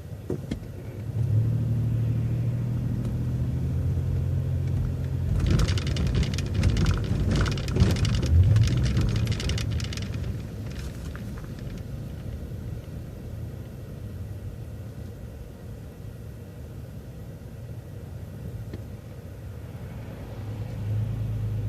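City transit bus driving, its engine a steady low hum under road noise. A louder stretch of hiss and clatter comes between about 5 and 10 seconds in, then the sound settles back to a quieter hum.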